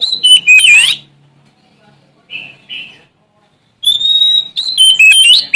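Oriental magpie-robin (Sumatran kacer) singing loud, clear whistled phrases with quick up-and-down notes. There is a short pause with two soft notes in the middle, and a long varied phrase starts near the end.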